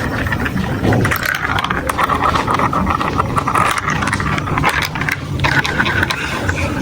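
Marbles rolling and clattering down a building-block marble run: a continuous rattle of many small clicks over a steady rolling rumble.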